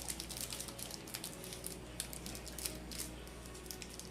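Faint scattered clicks and light rustling from handling, over a steady low hum.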